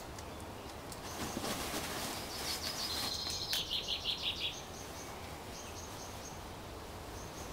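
A small bird singing one short phrase that ends in a fast trill, about three seconds in, with faint high chirps now and then over steady garden background noise.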